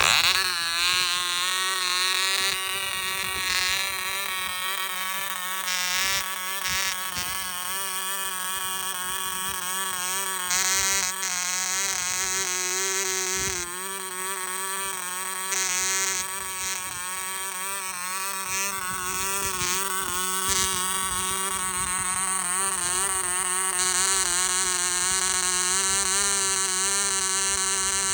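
1954 O.K. Cub .049 (0.8 cc) model diesel engine running, a steady buzz whose pitch wavers slightly throughout.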